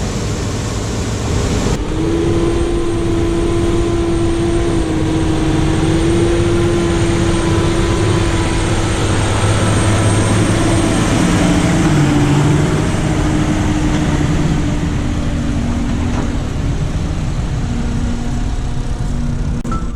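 Heavy farm harvest machinery running steadily under load: a dense engine drone with a steady whine over it that drifts slightly in pitch. The sound changes abruptly about two seconds in.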